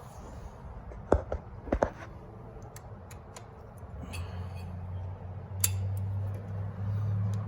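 A few sharp clicks, then an engine starting from cold: a steady low hum comes in about four seconds in and grows louder about a second and a half later.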